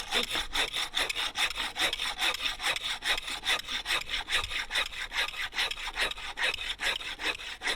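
Hand saw cutting through wood in quick, even back-and-forth strokes, about four a second.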